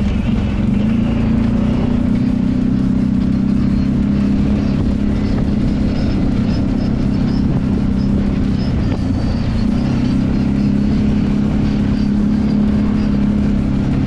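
Kawasaki Brute Force 750 ATV's V-twin engine running steadily on the trail, easing off briefly a little past the middle and then picking back up.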